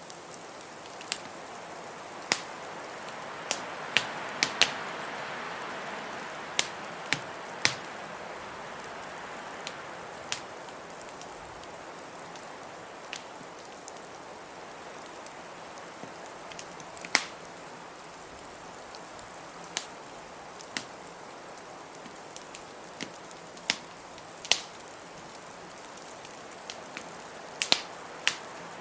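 Wood fire in a fireplace crackling, with sharp irregular pops, over a steady rush of blizzard wind that swells about five seconds in.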